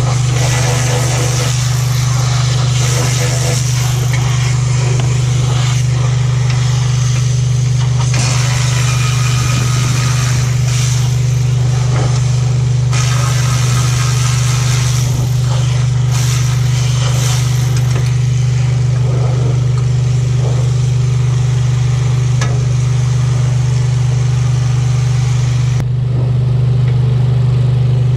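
Loud, steady engine drone from nearby machinery, like an idling engine, running unbroken, with irregular rattling and hissing over it.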